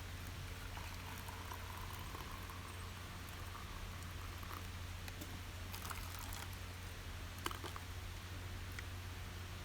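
Pot of rice bubbling at the boil over a camp fire, with scattered small crackles and ticks over a steady low hiss.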